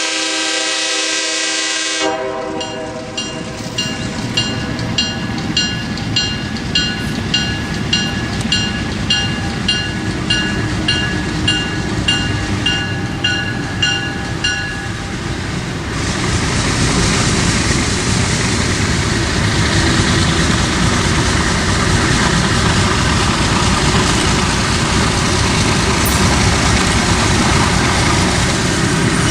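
A diesel train's horn sounding a held chord cuts off about two seconds in, followed by a bell ringing steadily at an even pace for about twelve seconds. From about sixteen seconds in, the train passes close by with a loud steady rumble and clatter of wheels on rails.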